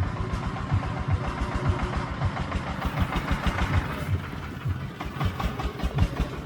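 Agricultural công nông truck's diesel engine running, with a steady low thumping beat.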